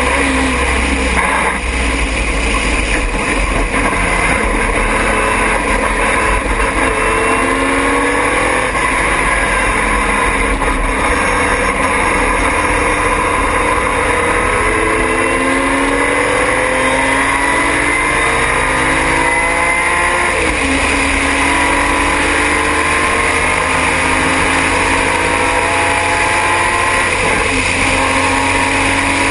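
Triumph TR6 race car's straight-six engine at full throttle, pulling up through the revs and dropping in pitch several times as it shifts gear. It is heard from on board over heavy low rumble.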